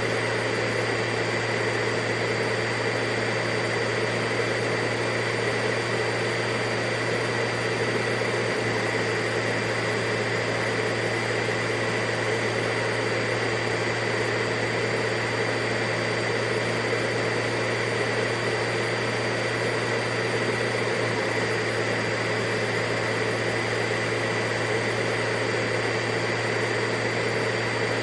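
Vacuum cleaner motor running continuously with a steady hum and whine that does not change.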